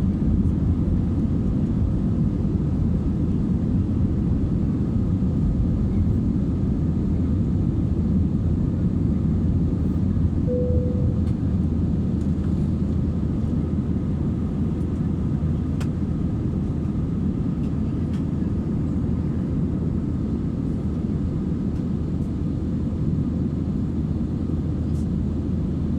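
Steady low roar of an Airbus A320-232's IAE V2500 turbofan engines and airflow, heard inside the passenger cabin in flight. A brief single tone sounds about ten seconds in.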